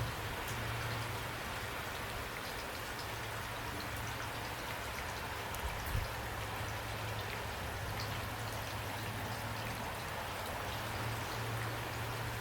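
Steady rain falling, an even hiss with scattered drop ticks, over a constant low hum. A single soft thump about six seconds in.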